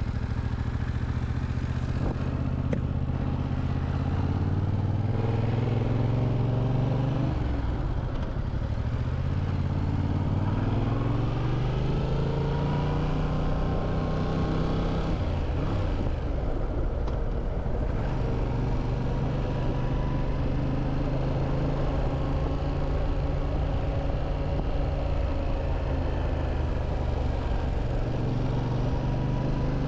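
Motorcycle engine running while riding, its pitch dropping about a quarter of the way in, climbing steadily for several seconds, dropping again about halfway through, then holding fairly steady.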